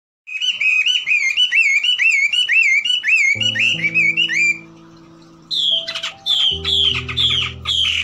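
Birdsong: a quick run of repeated whistled notes, about three a second. After a short lull it returns as busier chirping. Sustained music notes come in underneath about three and a half seconds in and again near the end.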